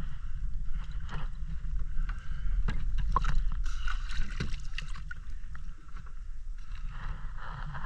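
Sea water sloshing and splashing close to the microphone in irregular bursts, densest a few seconds in, over a steady low rumble.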